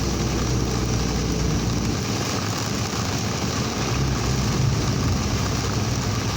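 A vehicle's engine droning steadily while driving through heavy rain, under a constant hiss of rain and wet road spray. The engine's low note shifts down about two seconds in.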